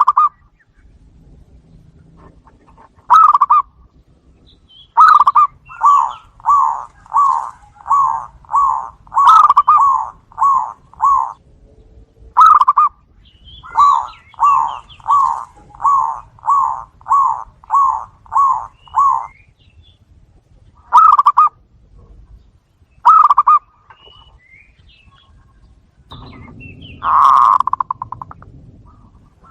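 Zebra doves (perkutut) cooing and answering each other: runs of short, even notes at about two a second, broken by single notes. Faint high chirps sound along with the runs, and near the end comes one longer call over a low rumble.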